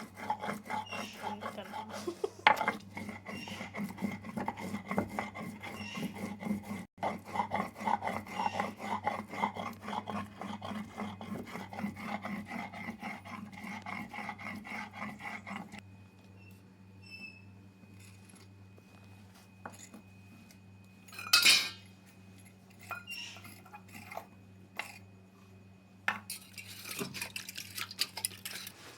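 Knife cutting green beans on a board: rapid, steady strokes for about the first sixteen seconds, then a few scattered clinks and one sharp clatter about twenty-one seconds in, over a steady low hum.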